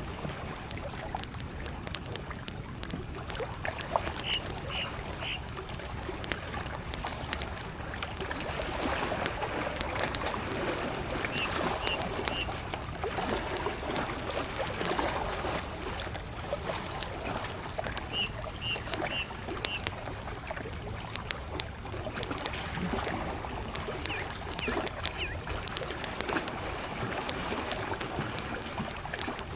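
Campfire crackling with many sharp pops over gentle lake waves lapping. A distant bird calls a short series of high notes three times.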